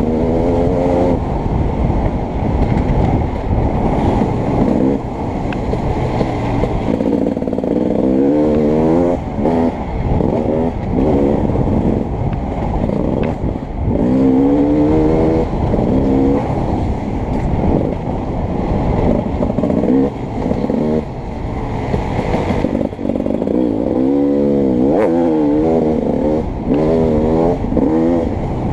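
Beta 300RX two-stroke dirt bike engine being ridden hard, its pitch repeatedly climbing under throttle and dropping back through shifts and off-throttle moments.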